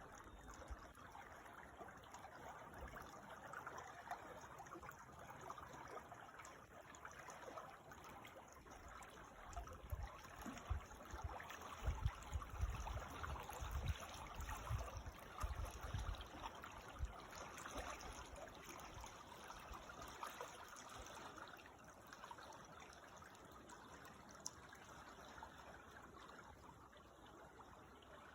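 Creek water trickling and babbling in a steady, faint rush, with a few low thumps in the middle.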